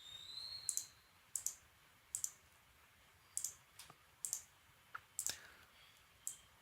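Faint computer mouse clicks, about a dozen short sharp clicks at irregular intervals, some in quick pairs, as brush strokes are painted in Blender.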